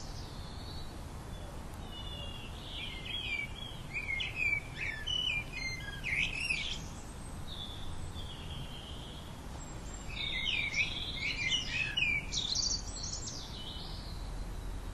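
A songbird singing two bursts of fast, varied warbling chirps and trills, one about two seconds in and one about ten seconds in, with a soft single note between them, over a steady low background rumble.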